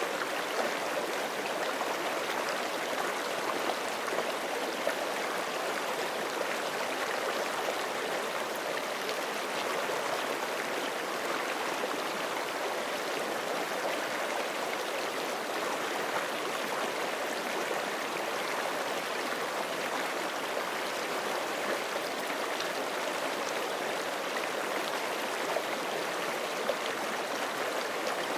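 Forest stream flowing steadily over rocks, a constant rushing and gurgling of water with small splashes.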